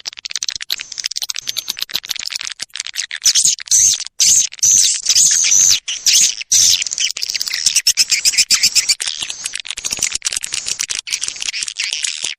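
Recorded swiftlet lure call of the kind swiftlet-nest farmers play to draw birds: a dense, rapid chattering of high clicks and chirps, louder for a few seconds in the middle.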